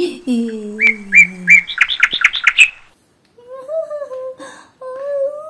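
Birds chirping: a quick run of about eight high chirps in two seconds. A voice gliding down in pitch comes before it, and a wavering hummed tone follows in the second half.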